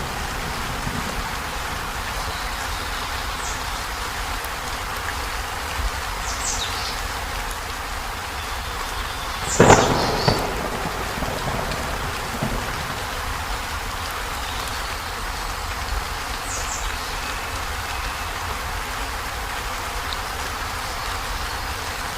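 Heavy rain drumming steadily on a corrugated zinc roof. About ten seconds in, a single loud crack of thunder, most likely, rises over the rain and dies away within a second or so.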